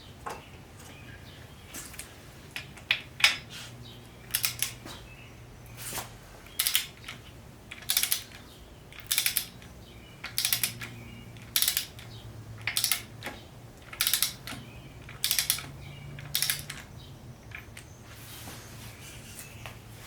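Ratchet wrench worked in short, even strokes, each stroke giving a quick cluster of metallic clicks, about one stroke a second, on an engine block's bolts.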